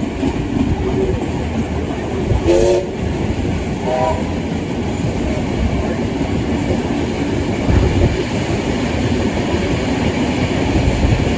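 Steady rumble and wheel-on-rail noise of a passenger train running at speed, heard from on board behind steam locomotive 3801. Two short pitched calls cut through it, a couple of seconds in and again about four seconds in.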